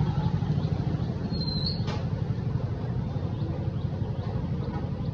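Two-stroke motorcycle engine idling with a steady, rapidly pulsing low note, with a short rising high-pitched chirp and a single click about two seconds in.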